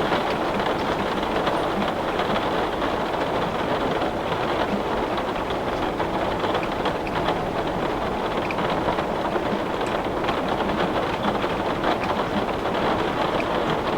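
Heavy rain falling steadily on a window pane, a dense even patter with scattered sharper drop ticks.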